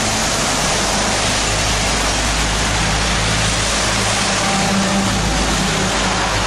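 Heavy rain pouring down steadily as a dense, even hiss, with a low steady hum underneath.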